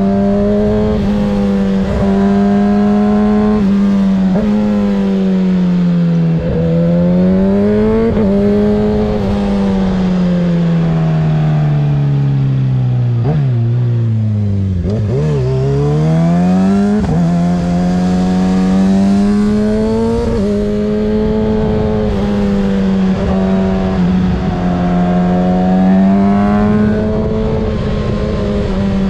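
2024 Kawasaki ZX-6R 636's inline-four engine, with a Graves exhaust, pulling hard through the rev range as it accelerates and eases off. About halfway through the revs fall away in a long slide with a few quick blips on the way down, then climb again.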